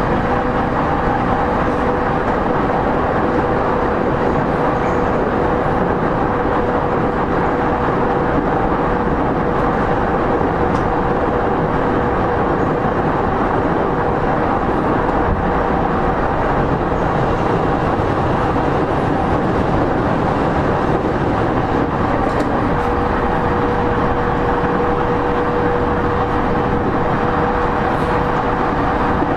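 Interior running noise of a JR East E231 series 0-番台 (0 subseries) commuter electric train, heard from inside a motor car running between stations. It is a loud, steady rumble of wheels and track with a constant-pitch hum of two held tones from the traction equipment.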